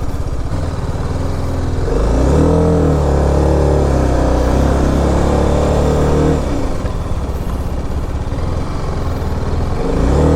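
BMW G 310 RR's single-cylinder engine revving under load on a steep climb. The revs rise about two seconds in, hold steady for about four seconds, drop, then rise again near the end. The rider is slipping the clutch and fears the clutch plate will burn.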